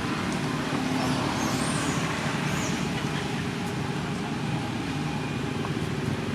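Steady low motor rumble, like road traffic, with a few faint high squeaks about two seconds in.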